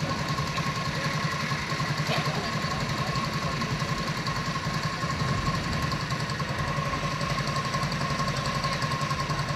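A vehicle engine idling steadily, with an even, rapid pulsing beat. A steady high tone runs alongside it throughout.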